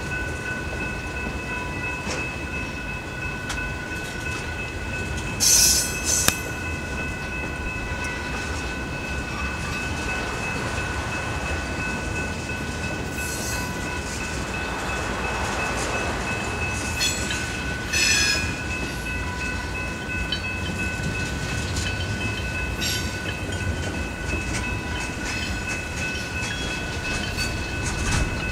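Freight train of tank cars rolling steadily past, its wheels rumbling and clicking over the rail. A thin, steady squeal from the wheels runs underneath, with short, loud metallic screeches about six seconds in and again about eighteen seconds in.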